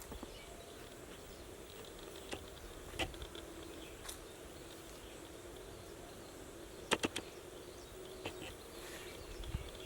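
Quiet rural outdoor ambience, a faint steady background hiss broken by a handful of short sharp clicks at irregular intervals, with a quick cluster of three about seven seconds in.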